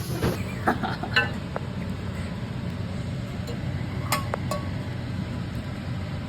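Tableware clinking as people eat, probably utensils against plates and bowls. A few light clinks come about a second in and two ringing clinks around four seconds in, over a steady low background noise.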